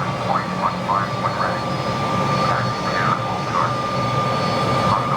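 DC-10 jet engines running steadily with a constant high whine over a low hum, with short stretches of a voice in the background.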